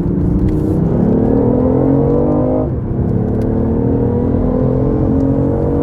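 BMW i8's three-cylinder turbocharged petrol engine heard from inside the cabin under hard acceleration. Its pitch rises, drops sharply at a gearshift about two and a half seconds in, then climbs again.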